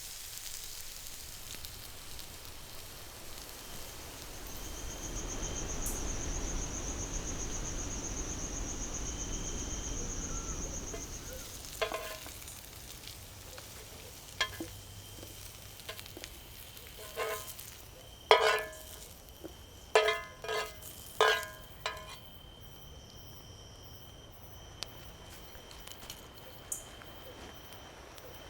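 Food sizzling in a cast iron pot, then about seven ringing metallic clinks of a utensil against cookware. In the last few seconds insects chirp steadily.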